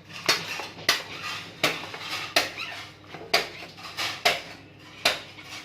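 About seven sharp clinks and knocks, spaced irregularly, like a hard utensil striking dishes or another hard surface, each with a short ring or scrape after it.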